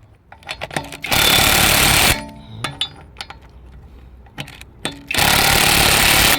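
Impact wrench hammering in two bursts of about a second each, tightening a wheel's lug nuts, with light metal clicks and clanks between the bursts.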